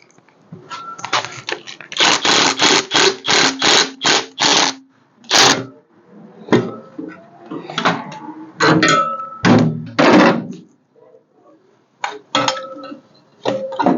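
Irregular knocks and clanks of hand-tool work on metal, with a quick run of about a dozen strikes between two and five seconds in, some ringing briefly.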